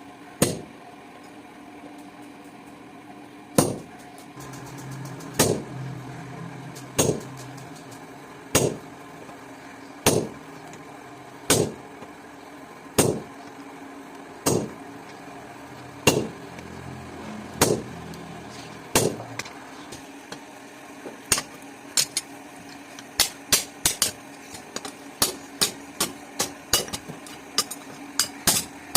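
Hammer blows on steel while a blacksmith forges a meat cleaver blade: single ringing strikes about every one and a half seconds, then quicker runs of strikes in the last third. A low steady hum sits under some of the strikes.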